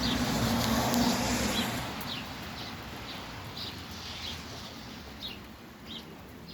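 Songbirds chirping: short, high, downward-sliding chirps repeating about once or twice a second, over a steady hiss that is louder for the first two seconds and then fades.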